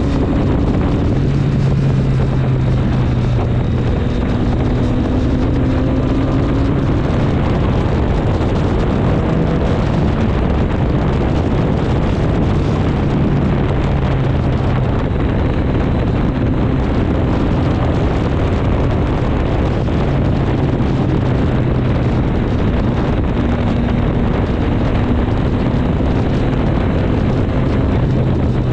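Triumph Street Triple 765 S inline-three engine running on the move, its note holding fairly steady with small shifts in pitch, under heavy wind noise on the microphone.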